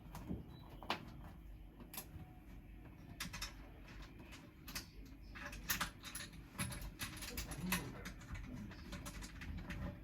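Scattered light clicks and knocks, irregular and short, over a low background rumble.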